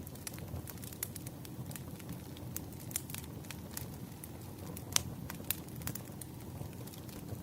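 Firewood burning: a steady low fire noise with irregular crackles and pops, the sharpest pop about five seconds in.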